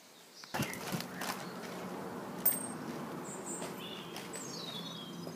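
Birds chirping a few times over steady outdoor background noise with a faint low hum, ending in a quick falling run of chirps. A few soft knocks come about a second in.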